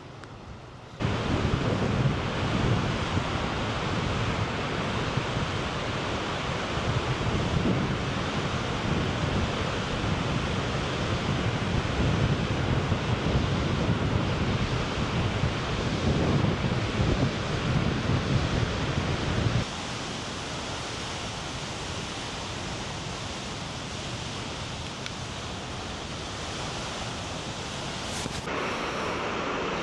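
Steady rush of water from Nugget Falls, a large snowmelt-fed waterfall, with wind buffeting the microphone. About twenty seconds in it drops abruptly to a softer, steadier rush.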